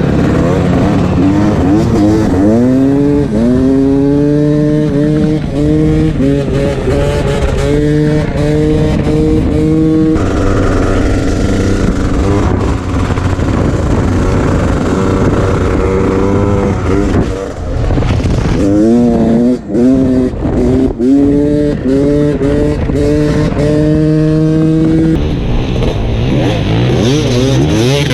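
Two-stroke dirt bike engine revving hard under way, its pitch climbing and then dropping again over and over as the rider works the throttle and shifts.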